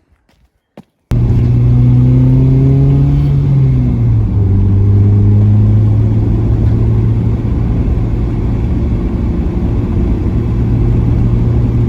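Ford Mondeo Mk3 driving on the road, heavily loaded: the engine note climbs a little, drops about four seconds in as a gear is changed, then holds steady at cruise over road rumble. The sound starts abruptly about a second in.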